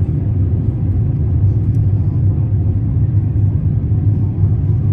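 Steady low rumble inside the passenger cabin of an Airbus A350-900 airliner: engine and airflow noise, even and unchanging.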